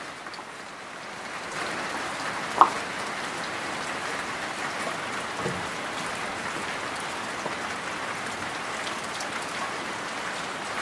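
Steady rain falling, with one short high-pitched sound about two and a half seconds in.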